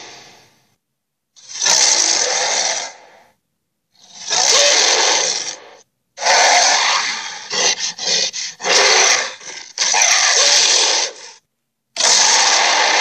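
Creature growl sound effects in five separate bursts of about a second and a half, with short silent gaps between them. The middle burst breaks into quick stuttering pulses.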